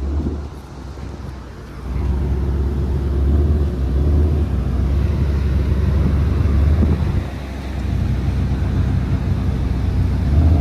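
Car engine idling with a deep, steady rumble, which drops back briefly near the start and then holds.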